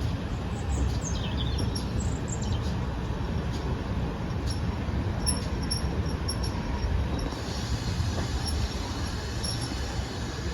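A steady low rumble, with small birds chirping over it: a run of quick gliding chirps about a second in, and fainter high chirps later on.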